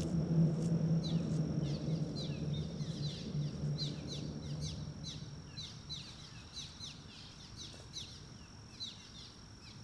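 Birds chirping repeatedly in short, quick falling notes over a steady faint high tone. A low rumble fades away over the first few seconds.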